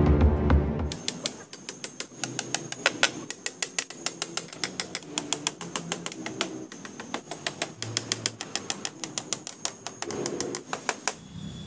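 Background music that stops about a second in, followed by fast, light hammer taps driving small nails, several a second with a faint metallic ring.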